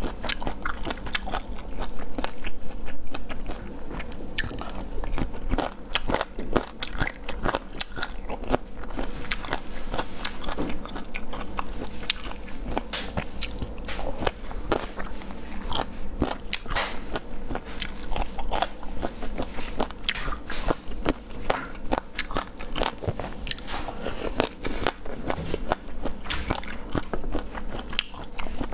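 Close-miked chewing of spicy chicken feet, with a dense, irregular run of crunches and bites several times a second as the cartilage and skin are chewed.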